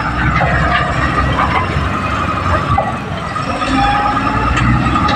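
Diesel engine of a small crawler bulldozer (Komatsu D20P) running steadily under load, with a high steady squeal and scattered knocks from the machine working.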